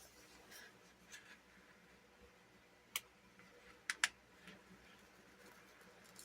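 Quiet handling of paper sticker-book pages: faint soft rustles, with three short sharp clicks or taps around the middle.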